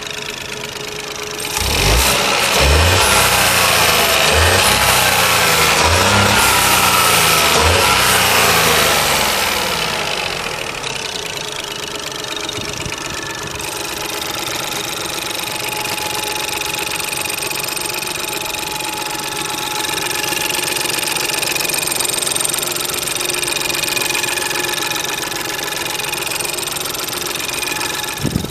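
Ford 1.0 EcoBoost three-cylinder turbo petrol engine (code M1DH) running. About two seconds in it is revved repeatedly for around eight seconds, then it drops back to a steady idle for the rest of the time.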